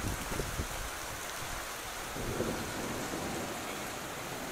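Heavy rain pouring steadily, with a brief low rumble at the very start.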